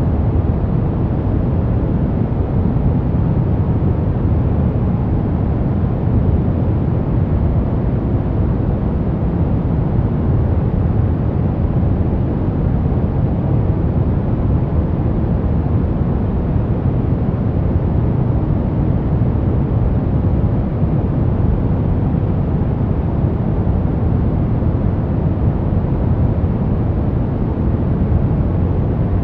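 Steady white noise made for baby sleep, heavy in the low pitches so it sounds like a deep, even rush, with no change over the whole stretch.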